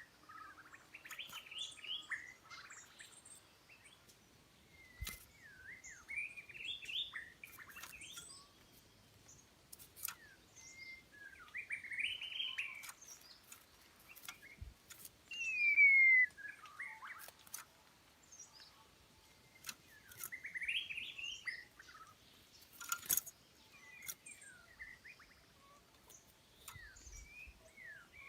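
A songbird singing short, varied warbling phrases every few seconds, the loudest about halfway through a falling whistled note. A few sharp clicks or taps fall between the phrases.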